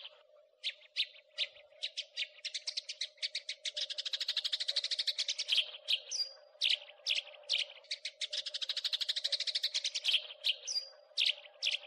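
House sparrow chirping and chattering: separate sharp chirps and fast runs of many chirps a second, the longest runs about four and eight seconds in. A steady low hum sounds underneath.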